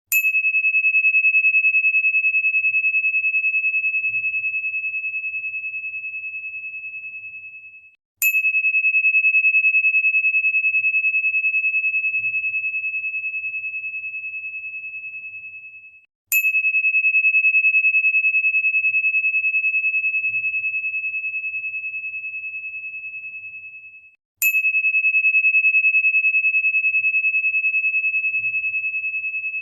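A single high, pure ringing tone struck again about every eight seconds, four times, each strike fading slowly over several seconds and cut off just before the next.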